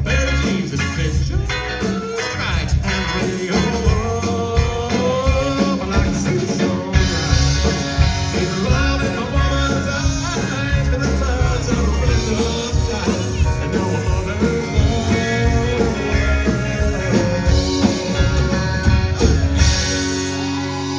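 Live country-rock band of drums, bass, acoustic and electric guitar playing an instrumental passage, with a guitar melody over a steady beat. The music fades a little near the end.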